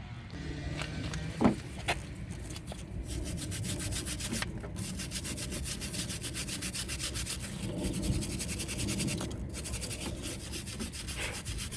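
Wire brush scrubbing rust and crust off the rear brake caliper hardware in rapid back-and-forth strokes, after a sharp knock about a second and a half in.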